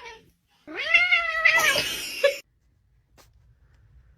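A cat giving one long, drawn-out meow that rises and then falls in pitch, lasting nearly two seconds.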